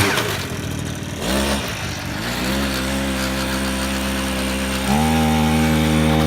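Small single-cylinder engine of a 50cc chopper mini bike: the throttle closes and the revs fall, there is a brief blip, it runs steady at low revs, then the revs jump up about five seconds in and hold.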